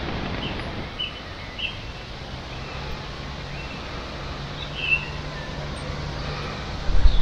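A few short bird chirps over a steady rushing outdoor background noise, with a low steady hum from about two seconds in and a dull thump near the end.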